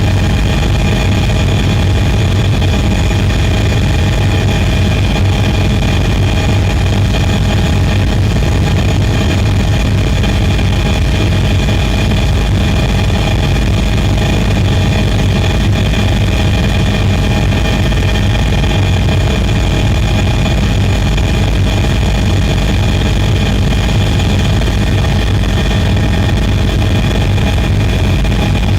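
Camera drone's motors and propellers humming steadily: several steady whining tones over a low hum, with no change in pitch or level.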